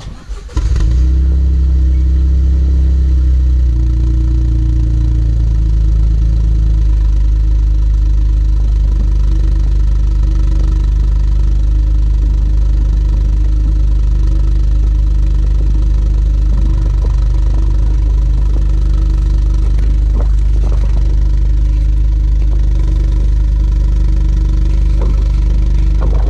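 Toyota GR Yaris 1.6-litre turbocharged three-cylinder starting about half a second in through an aftermarket sports exhaust, then idling steadily with a deep exhaust note; the idle speed steps down slightly within the first several seconds.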